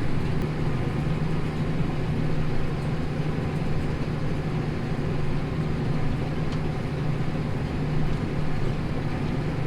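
Tractor engine running steadily under load while pulling a plough, a constant low-pitched drone with no change in speed.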